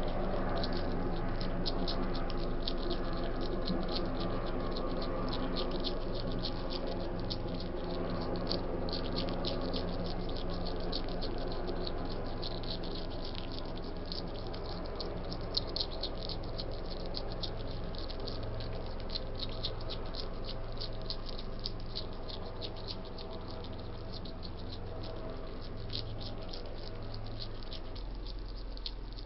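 Wild hedgehog chewing and crunching food, a dense run of small rapid clicks, over a steady low electrical hum.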